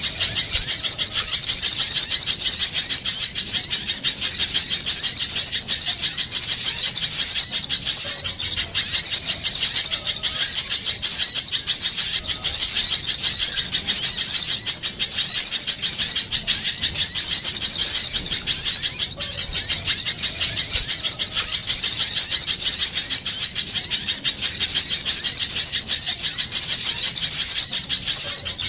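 Dense, unbroken chattering of many small songbirds: rapid, high-pitched chirps crowding over one another without pause. This is a bird-trapping lure recording of small birds calling in agitation.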